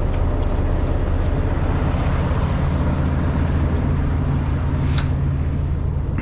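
Semi-truck diesel engine running with a steady low hum, with a few light clicks in the first second or so and a short hiss about five seconds in.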